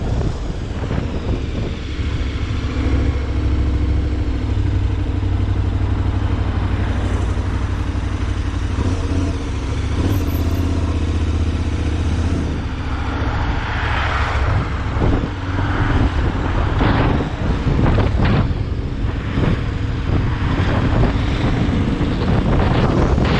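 A road vehicle's engine running at a steady speed, with wind noise on the microphone. After about twelve seconds the engine note fades under gusty wind buffeting.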